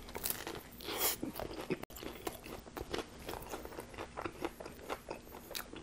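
A bite into a Subway Italian BMT on flatbread, then chewing it: a run of many short crunches and clicks, the strongest about a second in.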